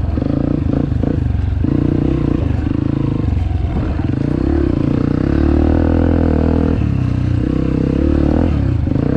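Dirt bike engine running under way, its revs rising and falling.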